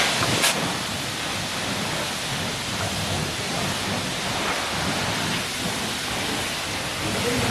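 High-pressure car wash wand spraying water onto a car, a steady hiss and spatter of water on the bodywork with a low rumble underneath.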